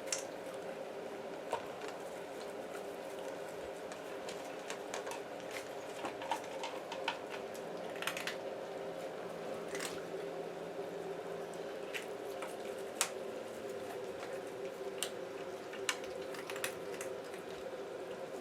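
Cat eating: small irregular chewing clicks and wet smacks over a steady low hum.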